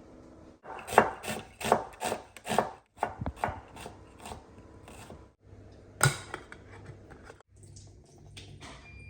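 Knife chopping food on a cutting board, a steady run of about a dozen cuts, then one louder knock on the board about six seconds in.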